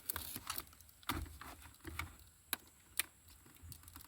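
Faint, scattered clicks and taps of hands working plastic car-interior trim and an electrical connector being pressed and pulled loose, with two sharper clicks about two and a half and three seconds in.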